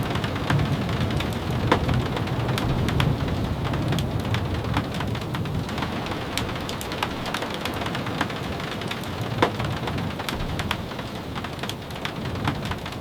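Steady rain, with many scattered sharp ticks of drops striking. A low rumble runs under it through the first half and fades after about six seconds.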